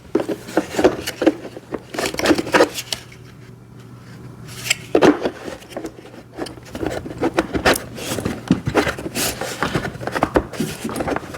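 Hard plastic parts knocking, clicking and scraping against each other as a plastic side step is fitted onto a kids' ride-on motorcycle body, with a quieter pause about three seconds in. A faint steady low hum sits underneath.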